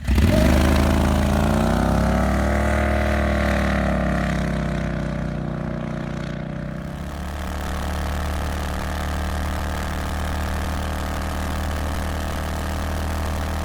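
670 cc two-cylinder Predator engine in a 1969 Renault R10 running hard under load as the car accelerates toward 55 mph. The engine note rises and falls over the first several seconds, then holds steady.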